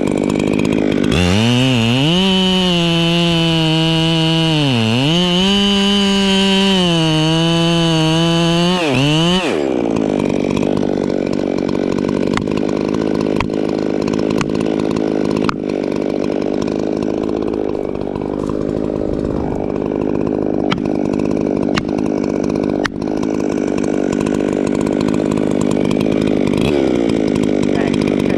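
Two-stroke Echo chainsaw revving up about a second in and running at full throttle for about eight seconds, with a brief dip in speed midway, then dropping back to a lower steady running speed with scattered clicks, and revving up again at the very end.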